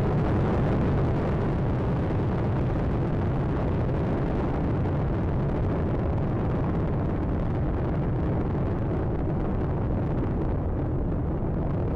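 Space Shuttle Atlantis's solid rocket boosters and three main engines rumbling steadily during ascent, about half a minute after liftoff. The higher hiss in the sound thins out gradually toward the end.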